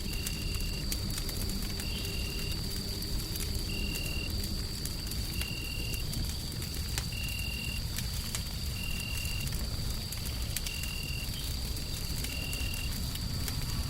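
Wood fire crackling with scattered sharp pops over a steady, deep white-noise rumble. A short high-pitched chirp repeats about every two seconds, and a faint steady high whine sits above it all.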